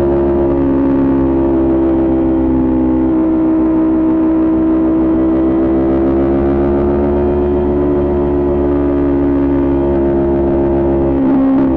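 Kawasaki Ninja 400's parallel-twin engine with a Coffman exhaust running at a fairly steady speed, its pitch drifting slightly up and down. Near the end a quick gear change briefly breaks the note and drops it to a lower pitch.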